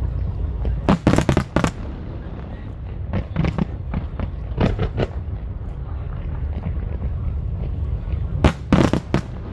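Fireworks bursting overhead: clusters of sharp cracks come about a second in, around three to five seconds in, and again near the end, over a steady low rumble of booms.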